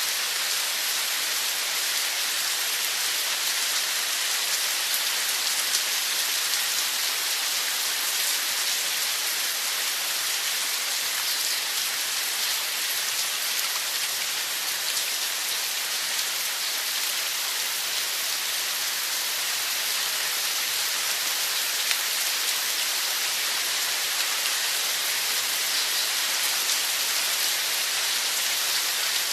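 A steady, even hiss of water, strongest in the upper range, with no pauses or changes.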